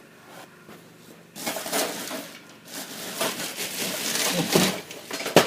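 Printer parts being handled and shifted: uneven rustling and scraping that starts about a second and a half in, with a sharp click near the end.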